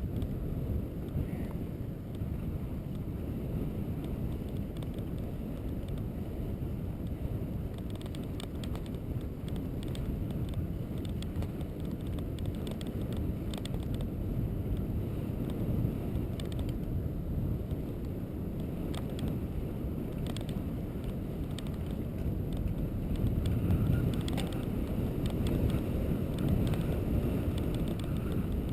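Wind buffeting the microphone over steady road rumble from travel along a road, with scattered small clicks and rattles, a little louder near the end.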